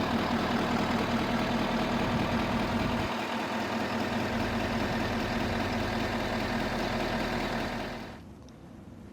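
A vehicle engine idling steadily, then dying away about eight seconds in, leaving faint wind noise.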